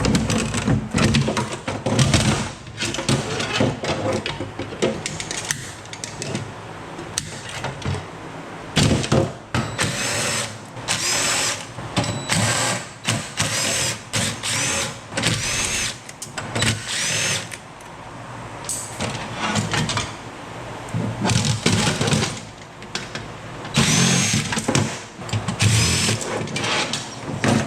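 Power drill spinning up in many short bursts, each with a rising whine, as it backs fasteners out of the machine being stripped for scrap. Knocks and clatter of metal parts come between the bursts.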